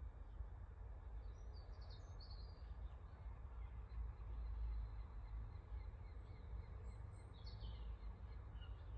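Birds chirping faintly in short high calls, in two clusters, over a steady low rumble.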